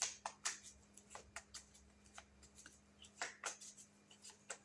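Tarot cards being handled and shuffled: a string of short, crisp flicks and slaps of the cards, bunched near the start and again about three seconds in.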